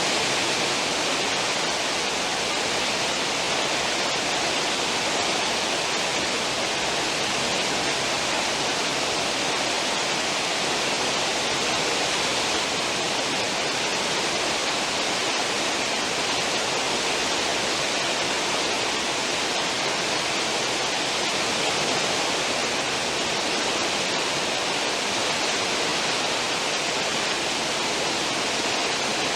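A cruise ship's wake churning behind the stern: a steady, unbroken rush of foaming sea water.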